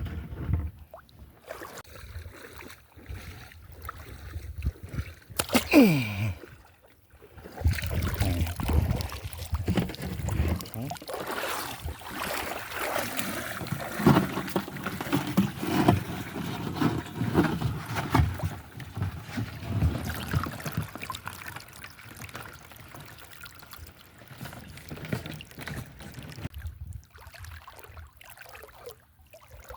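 Shallow seawater sloshing and trickling with irregular splashing, the sound of someone moving through water. A short falling squeak comes about six seconds in.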